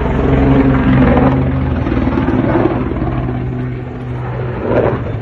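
Aircraft engine noise: a loud, steady drone with a low hum under a broad rush of air, easing off slowly.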